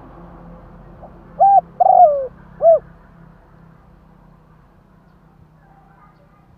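Spotted dove cooing one three-note phrase about a second and a half in: a short coo, a longer coo that falls at the end, then a short coo.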